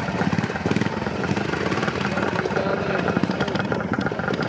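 Classic trials motorcycle engine running at low revs under a varying throttle.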